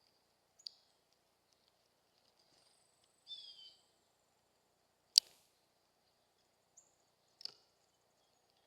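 Birds at a feeder: a few sharp, high chip notes and a brief falling chirp a little after three seconds, with one loud sharp tap about five seconds in. Faint steady hum underneath.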